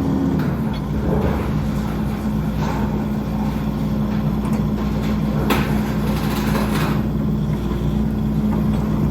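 Skid steer engine running at a steady speed, with a couple of brief knocks past the middle.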